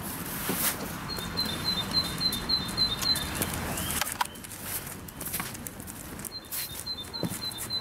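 A small songbird singing a quick run of short high notes, about four a second, once about a second in and again near the end. Under it run steps and scuffing from the walk.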